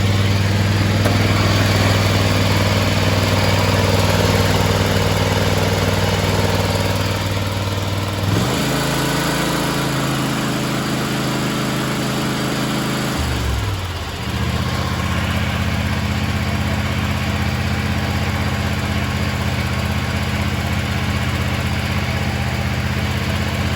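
John Deere X590 garden tractor's two-cylinder fuel-injected Kawasaki engine running steadily. Its speed steps up about eight seconds in, dips sharply around fourteen seconds, and settles back to a steady run.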